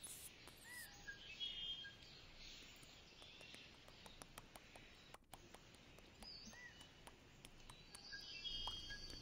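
Faint outdoor ambience with a few distant bird chirps and some small clicks.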